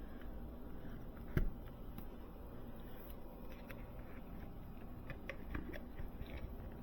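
Light handling clicks of thermostat wire being fitted into a Nest thermostat base's terminals: one sharp click about a second and a half in, then a scatter of small ticks.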